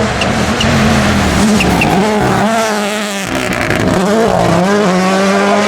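Rally car engine running at high revs, its pitch dipping and climbing back several times through the middle, then holding steady.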